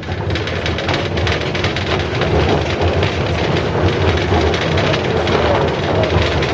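A 71-605A tram running along the rails, heard from inside the car: a steady loud rolling noise of steel wheels on track with a low rumble of the running gear.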